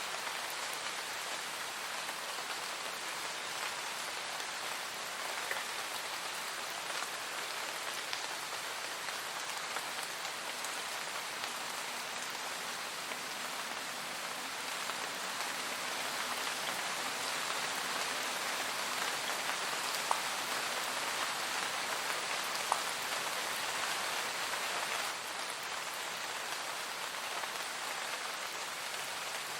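Steady, even rain falling and pattering on a surface, with a few individual drops ticking now and then.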